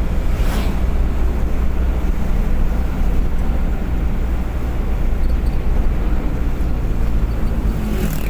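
Steady low rumble of a vehicle travelling at speed, engine and road noise together, with a brief whoosh about half a second in.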